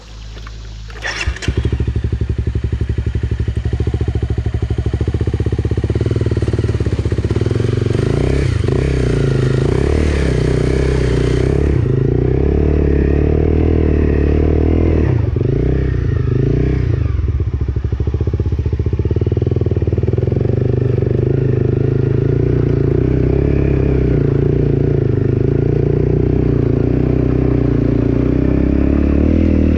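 Honda CRF250L's single-cylinder four-stroke engine starting about a second in, then running loud and being revved up and down as the bike is ridden out of the shallow river.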